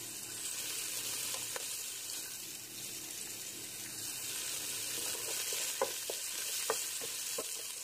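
Browned onions, garlic, green chili and whole spices sizzling in hot oil in a metal pot, stirred with a wooden spoon, with a few short knocks of the spoon against the pot.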